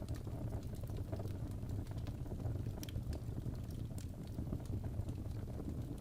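Wood fire burning in a fireplace: a steady low rumble of flames with scattered sharp crackles and pops, one louder pop about three seconds in.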